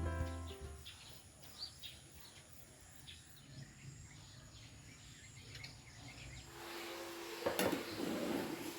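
Background music dying away, then faint rural ambience with a few short bird chirps. Near the end a steady low hum sets in, and there is a single sharp knock followed by a brief rustle.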